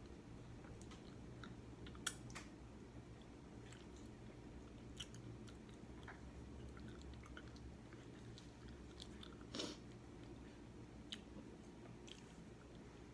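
Faint chewing of pizza: scattered small mouth clicks and smacks over a steady low hum. A louder click comes about two seconds in, and a brief louder noise just before the ten-second mark.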